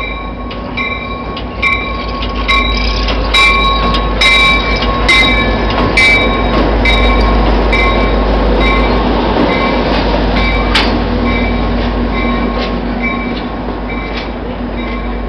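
Diesel passenger train rolling slowly past close by, its locomotive bell ringing steadily about twice a second over the low engine rumble. Wheels knock over rail joints, loudest a few seconds in.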